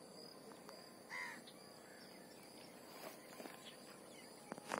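Faint outdoor quiet with a single short bird call about a second in, and a few faint clicks near the end.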